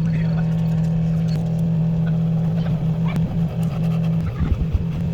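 Steady low machine hum with small clicks and light taps over it, and a few low knocks a little after four seconds in.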